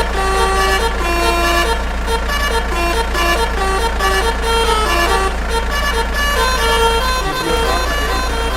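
Telolet multi-tone truck horn playing a quick melody of changing notes over a steady low rumble; the rumble briefly drops out near the end.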